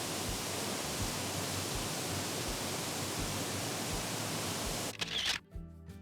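Waterfall: a steady rush of falling water that cuts off suddenly about five seconds in, leaving a brief faint hum.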